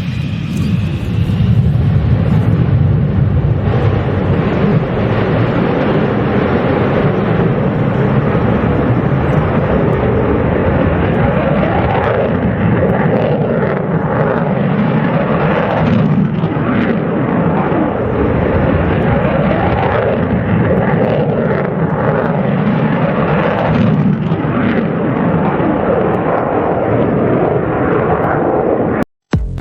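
Aircraft engine noise, loud and continuous with slow swells, cutting off suddenly near the end.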